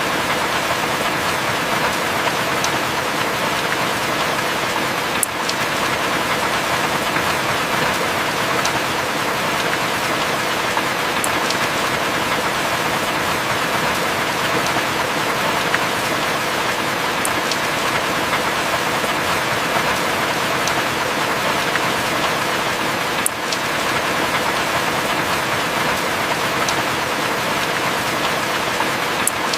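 Steady heavy rain, an even hiss with a few sharp, scattered drop ticks.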